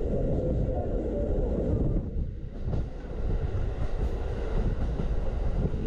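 Norokko sightseeing train car running along the track: a steady low rumble of wheels on the rails.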